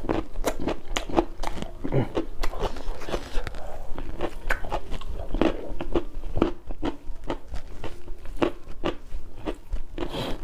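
A person chewing a mouthful of food, with a steady run of sharp crunches.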